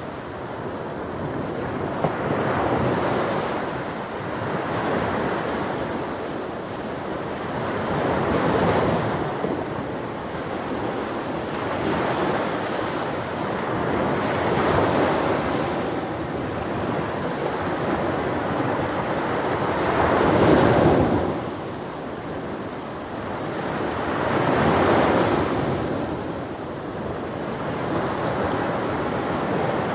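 Ocean waves breaking on a beach, the surf swelling and washing in again every few seconds, with the biggest wave about two-thirds of the way through, and some wind on the microphone.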